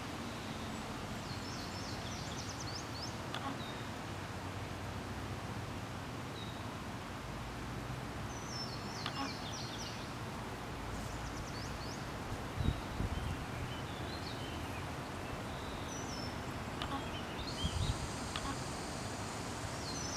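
Outdoor ambience: a steady background hiss, with short bursts of high-pitched bird chirps at several points, and a few low thumps about two-thirds of the way in and again near the end.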